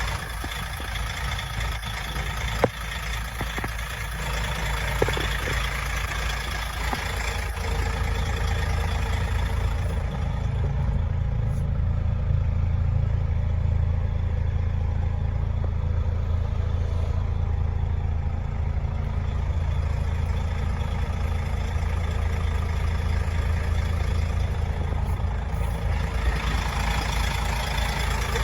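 DAF CF85.460 tractor unit's 12.9-litre PACCAR MX straight-six diesel idling steadily, with a couple of sharp clicks in the first few seconds. For a long stretch in the middle the sound turns duller and deeper, then brightens again near the end.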